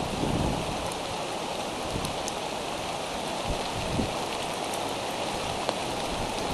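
Steady rain falling on a bald eagle nest and the nest-cam microphone, with a few louder single drops ticking.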